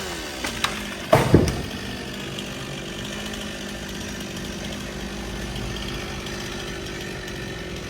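Stihl chainsaw idling steadily after being revved, with a couple of light knocks and a short, loud burst about a second in.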